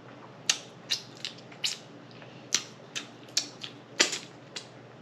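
Close-miked lip smacking and mouth clicks while eating macaroni and cheese: about a dozen sharp, irregular smacks.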